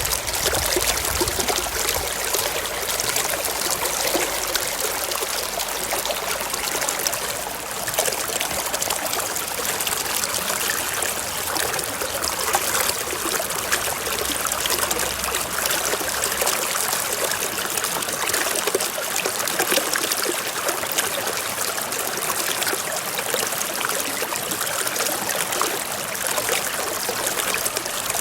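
Forest stream flowing steadily over rocks, a continuous splashing and trickling rush of water.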